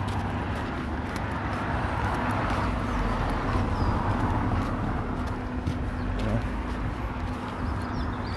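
A motor vehicle passing by, its noise swelling and fading over a steady engine hum.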